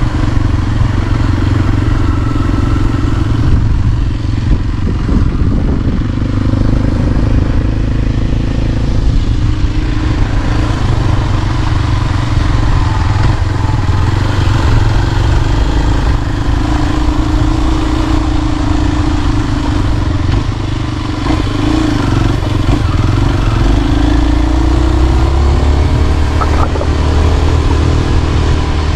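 Motor vehicle engine running steadily under a continuous low rumble. Its pitch rises and falls through the second half, as with changing revs.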